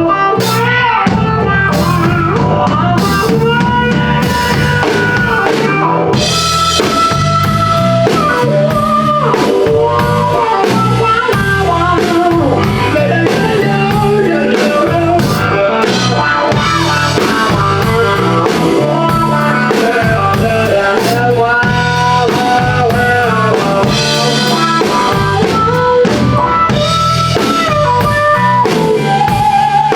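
Live blues-rock band playing an instrumental stretch: lead electric guitar with long, bending notes over a steady drum kit groove and low-end rhythm.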